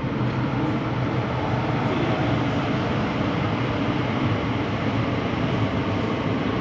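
New York City subway train running, a steady rumble with rail and wheel noise.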